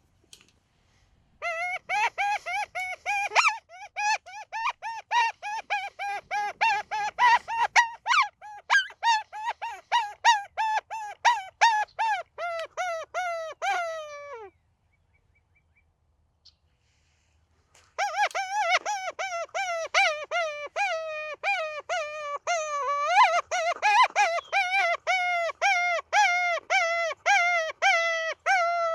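Predator call sounding a fast run of short, high, repeated cries, about two or three a second, used to lure coyotes in. It plays for about thirteen seconds, stops for a few seconds, then starts again.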